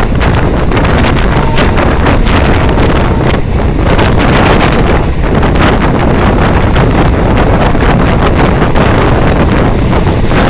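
Loud, steady wind buffeting the microphone, a dense rumbling roar with no breaks.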